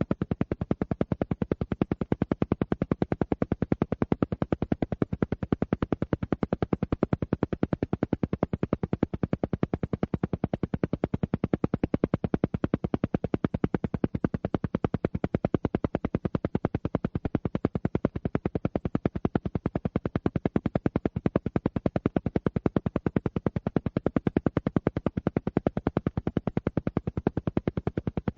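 Alpha-wave brainwave-entrainment track: a steady train of rapid, evenly spaced sound pulses, many a second, repeating without change.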